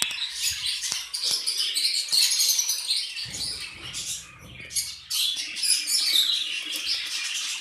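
A flock of caged budgerigars and lovebirds chattering, a dense, continuous high chirping, with a few light knocks.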